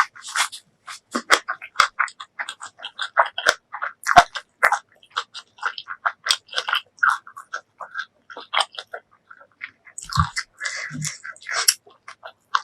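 Close-miked chewing: a rapid, irregular run of wet mouth clicks, smacks and crunches as food is bitten and chewed, with a couple of deeper thuds about ten seconds in.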